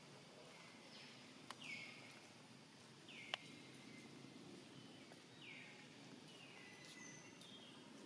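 Faint forest ambience with a bird calling: short notes that drop in pitch, repeated about every two seconds. Two sharp clicks, about one and a half and three seconds in, the second the loudest sound.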